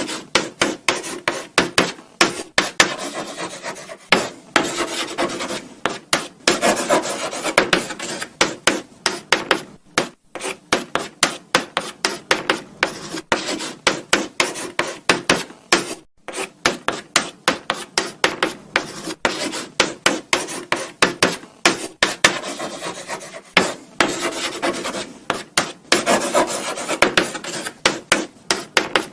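Chalk writing on a blackboard: quick, irregular scratching strokes with short pauses between, and some longer continuous rubbing stretches.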